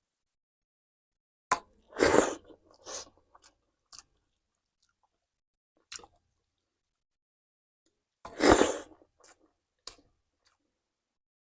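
A person biting and chewing food in short separate bursts, starting about a second and a half in, with two louder bouts about two seconds in and eight and a half seconds in and small clicks between.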